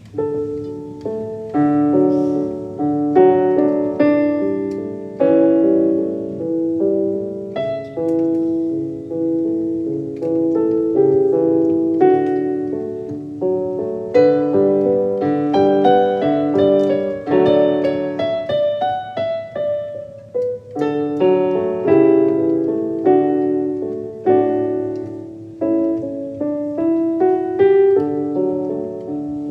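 Background music: a solo piano playing a gentle melody of steadily paced notes.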